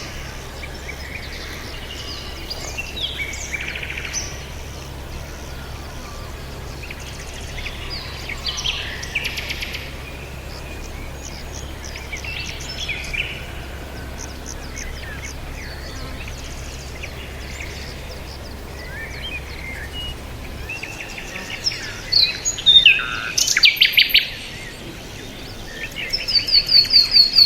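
Several songbirds chirping and calling over a steady background hiss, with short chirps scattered throughout. Near the end the calls grow louder and come in fast runs of repeated chirps, and a low hum underneath stops about two-thirds of the way through.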